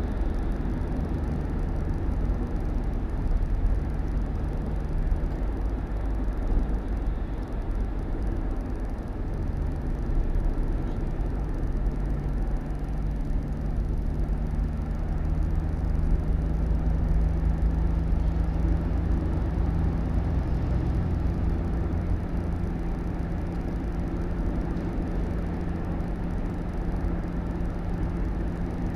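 Vehicle engine running steadily with low road rumble; the engine note rises slightly about nine seconds in and then holds.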